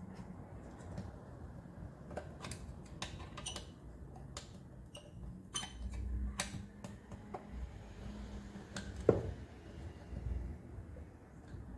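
Scattered light clicks and taps of handling work, with one louder knock about nine seconds in.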